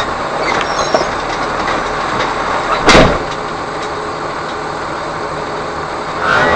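Steady vehicle rumble with one loud bang about three seconds in.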